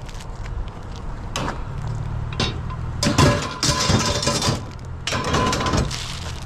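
Scrap metal items being handled and set down: a series of knocks and clatter with rustling between them, over a steady low engine hum that starts about two seconds in.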